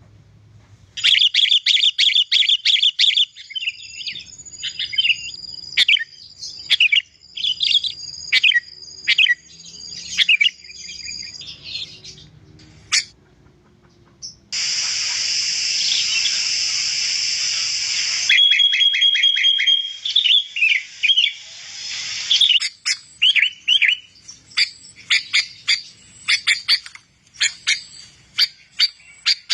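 Sooty-headed bulbul (kutilang) singing: quick runs of chirps and whistled notes, with a harsh, steady buzzing rasp lasting about four seconds midway.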